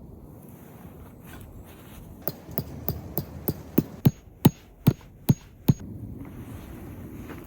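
A hammer striking about a dozen times in quick succession, roughly three blows a second, the blows growing louder. The later strikes give a short high metallic ring.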